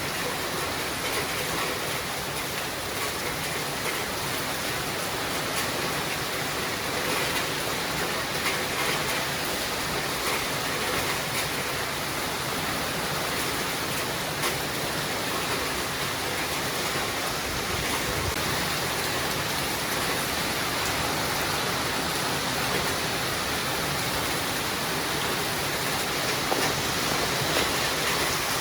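Steady rain falling: an even, dense hiss with faint scattered drop ticks.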